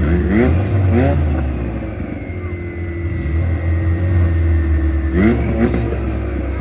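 Honda Civic B-series four-cylinder engines revving hard, in quick rising bursts near the start and again about five seconds in, with a steadier pull in between and a faint high whine.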